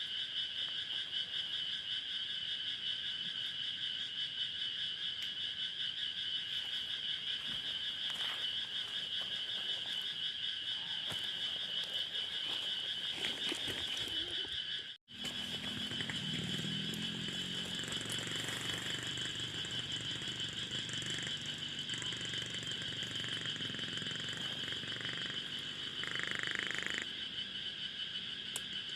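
A steady evening chorus of calling frogs and insects, holding two high pitches throughout, with a short break about halfway through.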